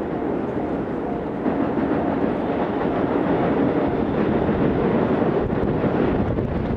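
Container freight train hauled by an EF210 electric locomotive approaching over a railway bridge: a steady rumble of wheels on rail that grows louder about a second and a half in.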